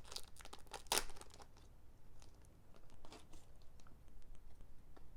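Crinkling and tearing of a foil Pokémon booster pack wrapper, with the light rustle and clicks of trading cards being handled. The loudest crackle comes about a second in.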